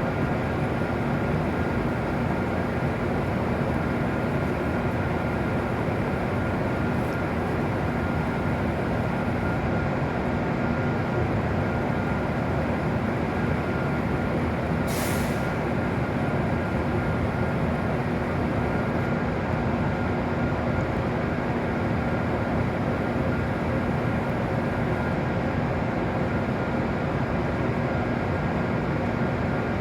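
W7-series Shinkansen train standing at the platform, its onboard equipment giving a steady hum with a few fixed tones. About halfway through there is a short hiss of released air.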